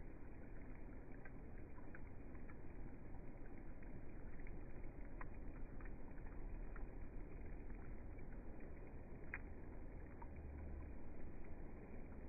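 Rainfall at night: a steady, dull hiss of rain with scattered faint ticks of individual drops.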